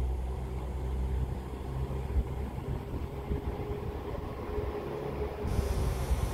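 Train's engine running, a steady low hum with a faint higher whine through the middle. Wind noise on the microphone comes in near the end.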